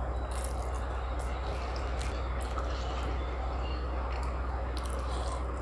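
Close-up eating sounds: wet lip smacks and mouth clicks while chewing chicken biryani, at irregular intervals, over a steady low hum.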